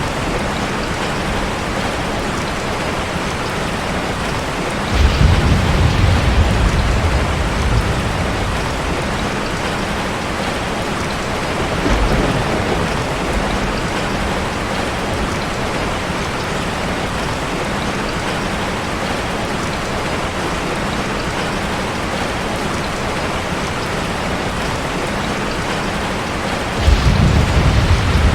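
Steady rushing of a waterfall, an even wash of water noise. A deeper low rumble swells up about five seconds in for a few seconds, briefly again near the middle, and once more near the end.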